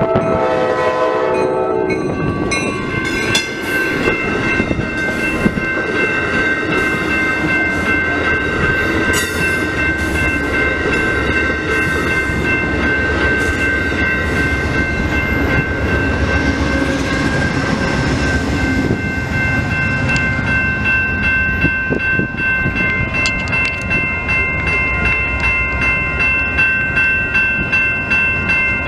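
Amtrak Downeaster passenger train passing close by. The horn sounds briefly at the start, then comes a steady rumble and clatter of the train rolling past, with a steady high ringing throughout.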